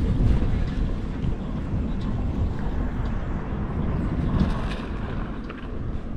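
A vehicle driving, heard from the vehicle itself: a steady low rumble of engine and road noise, with wind buffeting the microphone.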